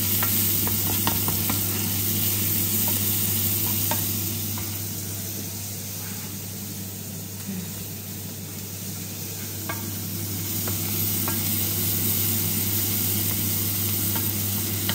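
Sliced onions and green chillies frying in sunflower oil in a frying pan, sizzling steadily as a wooden spatula stirs them, with scattered light taps of the spatula against the pan. The sizzle eases a little around the middle and comes back, over a steady low hum.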